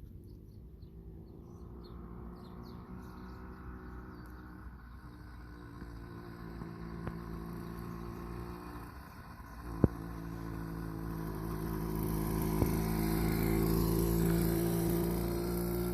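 Wildcat PK80 80cc two-stroke bicycle engine running, growing steadily louder as the motorized bike comes closer, with one sharp click about ten seconds in.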